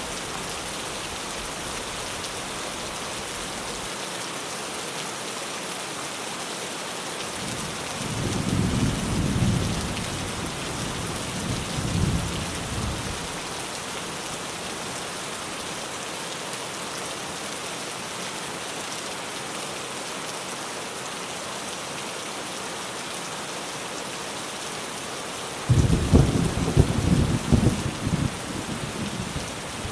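Steady rain on a tin roof, with thunder: a low rumble that swells twice, then a sudden louder thunderclap near the end that rolls on.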